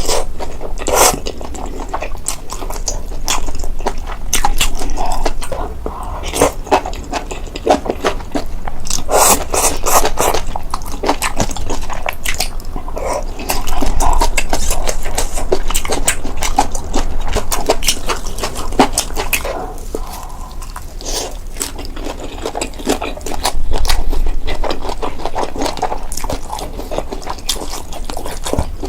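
Close-miked mukbang eating: a person biting and chewing chicken and noodles, with dense sharp wet clicks and crackles that come in bursts every few seconds.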